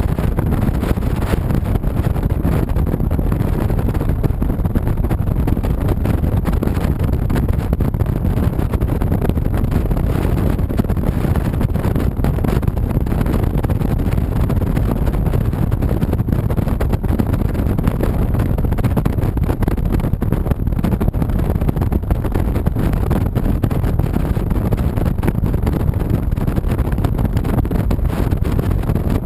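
Honda VTX 1300C's V-twin running steadily while under way, mixed with wind rushing over the microphone.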